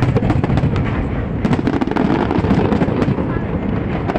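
Aerial fireworks going off in quick succession: a continuous rumble of booms with many sharp cracks layered over it.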